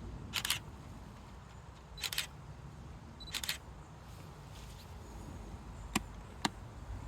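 Footsteps crunching through dry woodland leaf litter: three slow steps, then two sharp clicks near the end, over a steady low rumble.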